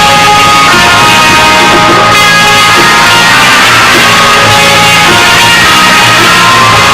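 Loud, heavily compressed rock band recording: guitars and drums playing continuously.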